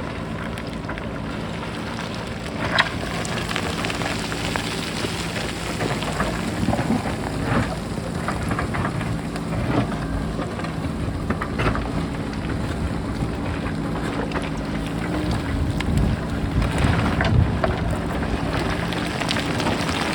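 JCB backhoe loader's diesel engine running steadily while it digs into a rocky hillside, with repeated clattering knocks of rocks and stones rolling and striking, the sharpest about three seconds in. Wind noise runs underneath.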